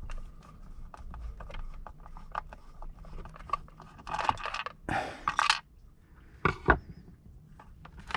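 Clicks, scrapes and rustling of hands handling a plastic shower pump unit, with a rougher scraping about four to five seconds in and two sharp knocks soon after.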